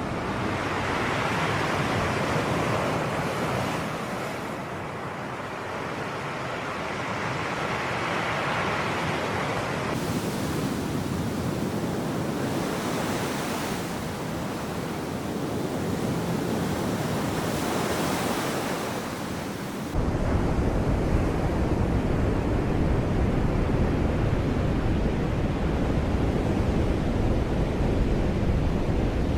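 Sea waves washing onto the shore, the surf swelling and ebbing in slow surges. About two-thirds of the way through, a low rumble of wind on the microphone sets in abruptly.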